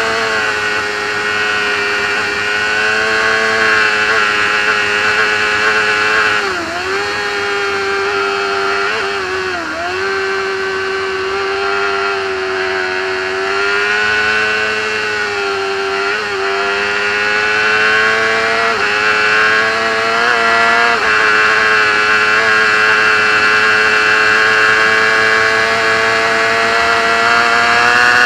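Racing motorcycle engine held at high revs at speed, recorded onboard, its note dipping briefly and recovering a few times.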